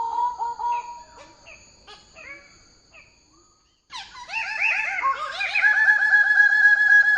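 Bird-of-paradise calls: rapid, evenly pulsed trilled notes on a steady pitch. The first call fades away, and after a short gap a second trill starts abruptly about four seconds in and holds steady and loud.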